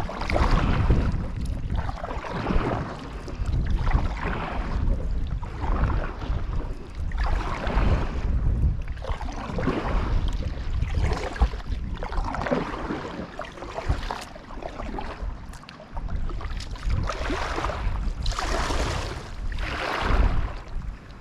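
Kayak paddle strokes dipping and pulling through the water, a swishing splash about every one and a half seconds, over a steady low rumble of wind on the microphone.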